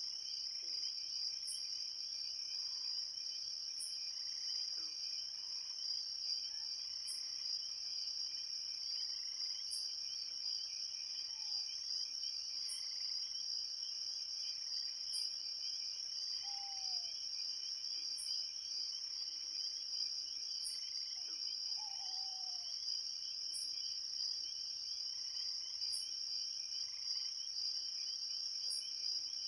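Steady evening chorus of insects trilling, with a very high, short chirp repeating about every two and a half seconds. A few faint short falling bird calls come in around the middle.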